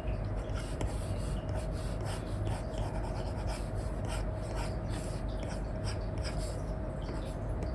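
Apple Pencil nib scratching and tapping in short, irregular strokes on an iPad's paper-like screen film, over a steady low background hum.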